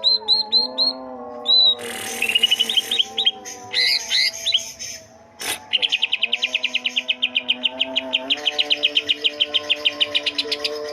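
Caged cucak ijo leafbirds singing: clear whistled notes and chatter, then a fast, even trill of rapid repeated notes from about six seconds in. A brief hiss about two seconds in and a single click a little past the middle.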